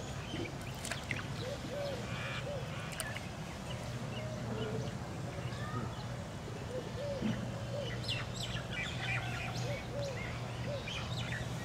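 Birds calling and chirping: short repeated calls that rise and fall, with a few high chirps, over a steady low hum.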